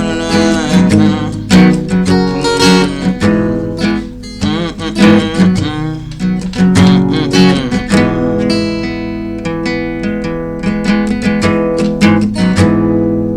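Acoustic guitar with a capo on the fourth fret, strummed in a steady down-up pattern through G-key open chords (E minor, G, C, D). The strums get lighter about eight seconds in, leaving the chords ringing.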